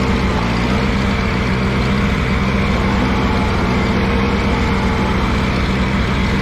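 Allis-Chalmers G tractor's small four-cylinder gasoline engine running steadily at an even pitch while the tractor creeps along in first gear.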